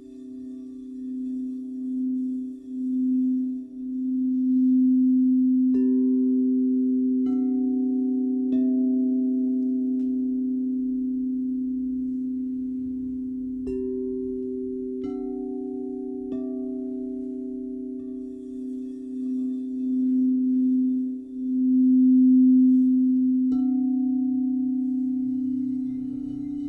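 Crystal singing bowls ringing with several sustained, overlapping tones that waver and swell in loudness; about five soft strikes bring in fresh tones along the way.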